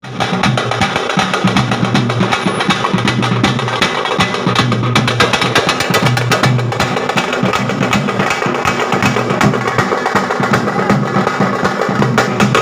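Drum-set band playing the fast, dense 'Thiruchi mirattal adi' beat: rapid drum strokes in an unbroken run over a steady low drone of drum tone.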